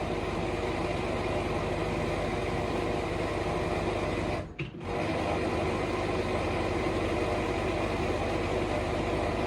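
A steady mechanical hum, as from a small motor or appliance, that cuts out sharply for about half a second midway and then resumes.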